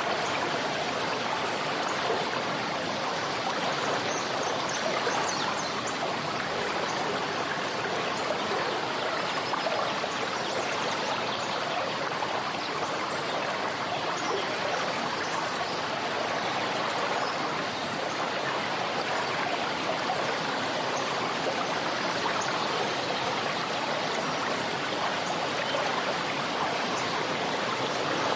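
A forest river flowing over stones: a steady rushing and babbling of water with small splashes throughout.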